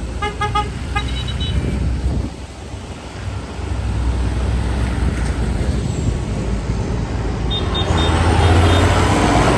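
Tractors and other farm vehicles passing with their engines running. A quick string of short horn toots comes about half a second in. Louder engine noise swells as a vehicle passes close near the end.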